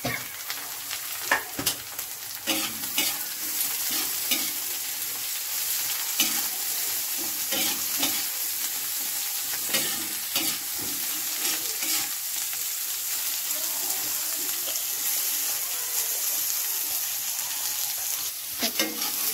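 Chopped brinjal frying in hot oil in a metal kadai, with a steady high sizzle, while a metal spatula stirs it, scraping and clinking irregularly against the pan.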